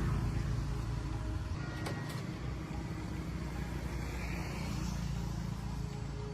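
Road traffic: a low, steady vehicle rumble, with a sharp click about two seconds in.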